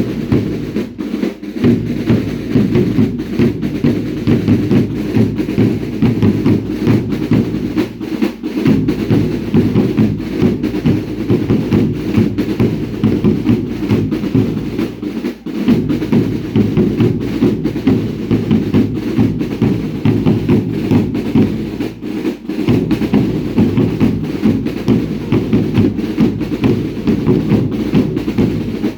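Drums of a Baile Indio religious dance troupe playing a fast, driving beat in dense strokes. The deep beat drops out briefly about every seven seconds as the rhythm repeats its phrase.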